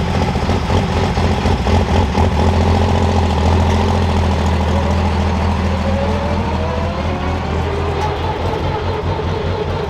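Heavy diesel engine running at low speed with a steady, fast pulsing, and a whine that rises in pitch about halfway through.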